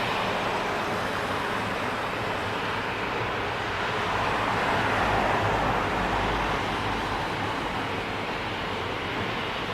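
Jet airliner engines running, heard as a steady rushing noise with a deeper rumble that swells about four to seven seconds in.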